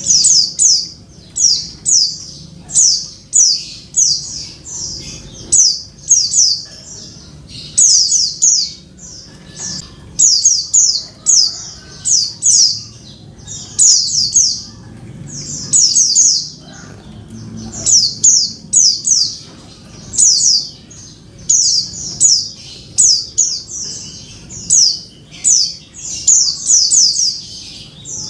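Female white-eye (pleci) calling: short, high notes in quick groups of two to four, repeated about once a second without a break. It is the female's call to a male, used to draw a silent male back into song.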